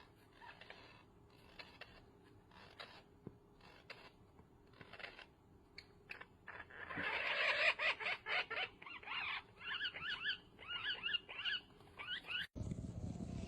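A small animal making repeated short, high calls. They start faint and sparse, then grow louder and quicker about halfway through, with a pitch that rises and falls on each call.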